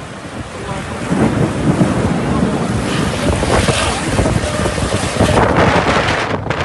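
Heavy rain in strong wind, with gusts buffeting the microphone; the noise swells about a second in and stays loud.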